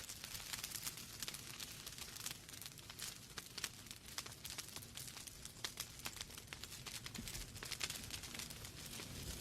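Wood fire in a fireplace crackling, with dense irregular pops and snaps from the burning logs over a soft low rumble of the flames.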